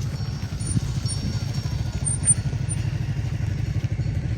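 Motorcycle engine running steadily, a low, fast-pulsing drone.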